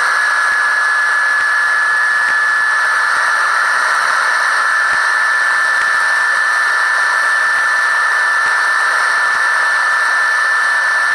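Inside the cab of a 1978 Ford F75 pickup with its four-cylinder engine cruising at highway speed, about 100 km/h. A loud, steady drone of engine, wind and road noise carries a constant high whine.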